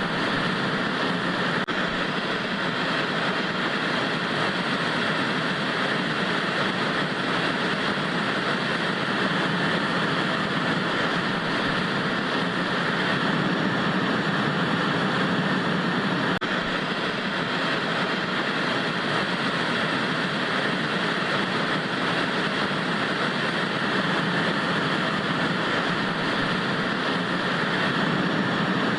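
Analog television static: a steady, even hiss that does not change.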